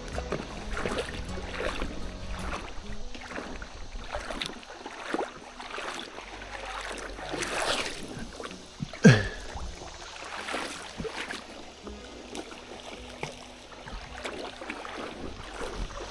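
River water splashing and lapping, with scattered plops and knocks from stones skipped across the water, and one short, louder sound about nine seconds in.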